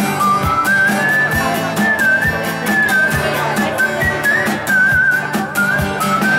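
Acoustic guitar strummed in a steady rhythm, with a high whistled melody wavering over it.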